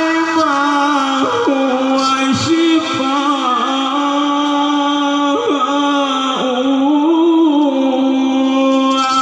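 A man reciting the Quran in a melodic, chanted style, drawing out long ornamented notes that waver and turn, with only short breaks for breath.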